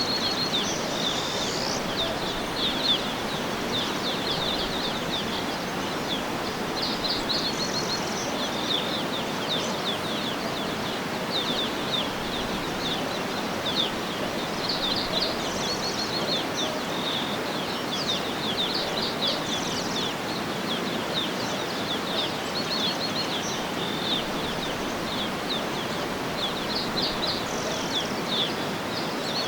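Songbirds chirping and trilling in short, high, repeated phrases throughout, over a steady background rush of outdoor ambience.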